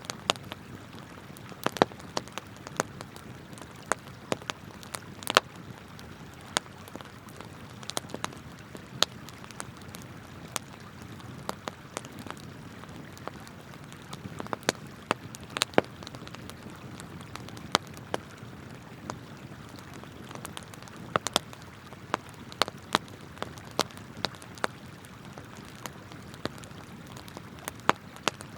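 Wood campfire crackling and popping in sharp, irregular snaps, some much louder than others, over the steady rush of a flowing river.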